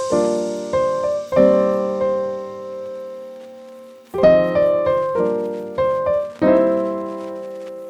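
Background piano music: slow chords struck and left to ring, with a pause about halfway through before the chords resume.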